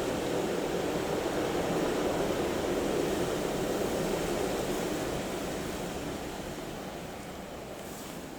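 Blizzard wind blowing in a steady rush, building to a peak about two to three seconds in, then easing off toward the end.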